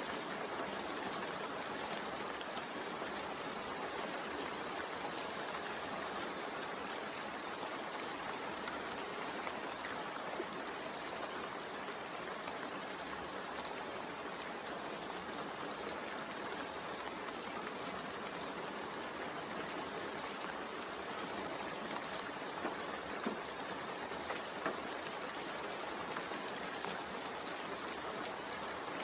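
Steady rain: an even hiss of falling rain, with a few louder single drops about three-quarters of the way through.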